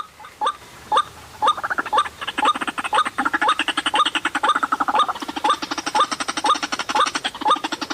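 White-breasted waterhen calling: a series of short upward-sliding notes about two a second, joined about a second and a half in by a fast, croaking chatter.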